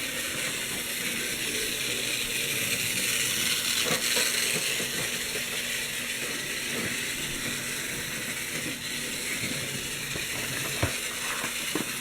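Vintage Märklin model locomotive running steadily around a small oval of track, a continuous whirring rattle of motor and wheels on the rails. It grows a little louder about four seconds in, and a couple of sharp clicks come near the end.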